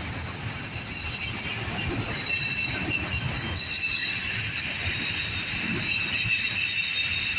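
Loaded autorack freight train rolling past, its wheels squealing in several steady high tones over the low rumble of the cars.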